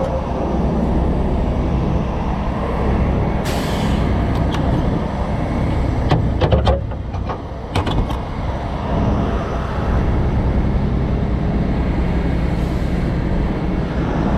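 Heavy diesel truck engine running steadily. A short air hiss comes about three and a half seconds in, and a few sharp knocks follow midway.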